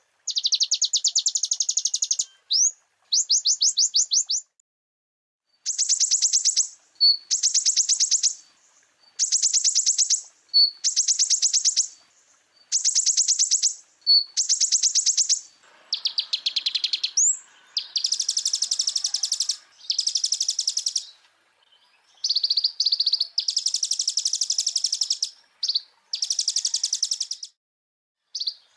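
Olive-backed sunbird singing: a run of rapid, high trills, each about a second long with short gaps between, with single short notes slipped in between some of them. From about halfway on, the phrases run longer and fuller.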